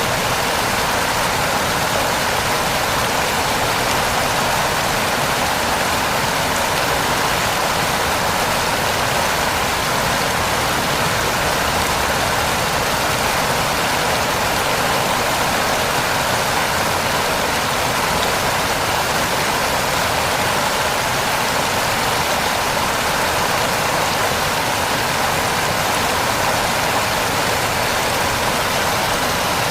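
Heavy rain falling steadily, a dense even hiss of drops with no breaks or single impacts.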